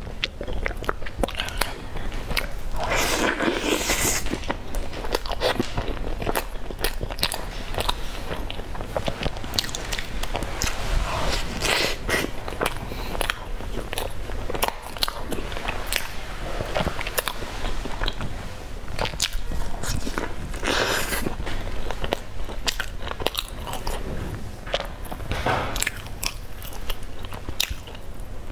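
Close-miked eating: biting into and chewing a soft, cheese-sauce-soaked layered sandwich, with a steady run of wet, crackling mouth clicks and a few louder bites.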